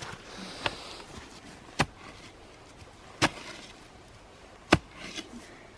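A digging tool striking hard ground, four sharp strikes about a second and a half apart.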